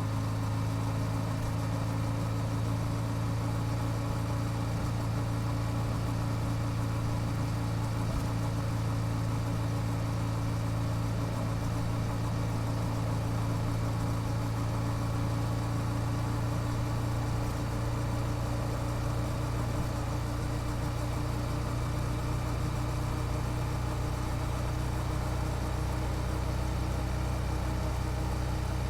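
Yamaha YZF-R7's 689 cc parallel-twin engine idling steadily through its stock exhaust, a low, even hum.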